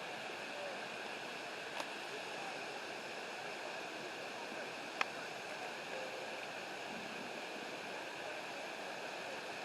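Steady rushing water of a waterfall, with two brief sharp clicks, about two seconds and five seconds in.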